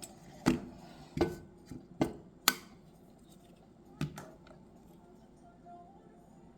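Five sharp clicks and taps of small hard objects being handled and set down, spaced irregularly over the first four seconds.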